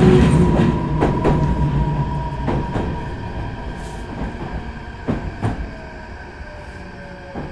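Meitetsu 4000 series electric train heard from inside the car as it slows: wheels clicking over rail joints in pairs that come further apart, the running rumble fading. A thin motor whine falls slowly in pitch.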